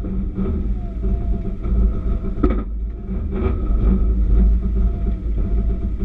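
Subaru rally car's flat-four engine idling steadily with a low rumble, heard from inside the stripped cabin, with one sharp click about halfway through.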